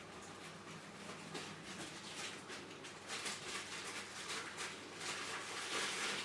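Faint irregular rustling and scratching, getting louder in the last few seconds.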